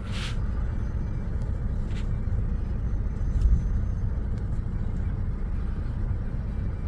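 Passenger train rolling past with a steady low rumble, with a brief hiss at the start and a faint click about two seconds in.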